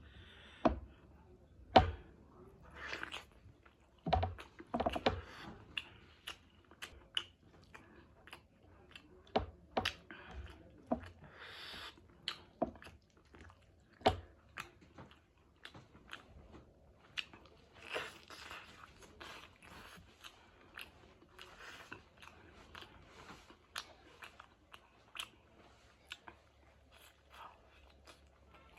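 Close-up eating sounds: chewing and biting with crunches and wet clicks of the mouth, as chicken wings with curry, rice and raw salad are eaten.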